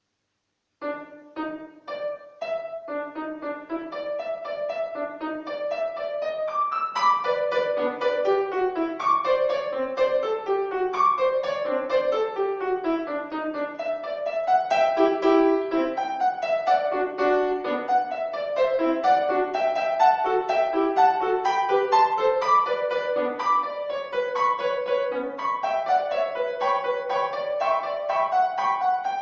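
Solo piano piece starting about a second in, played by a young student, with quick runs of separate notes in the middle and upper register.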